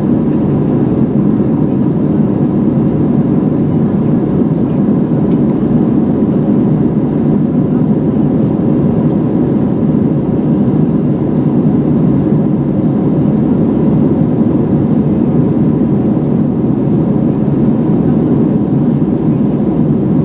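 Steady cabin noise of an Airbus A320-211 in flight, heard from a seat behind the wing: the even rush of air and engine hum, with a faint steady tone above it.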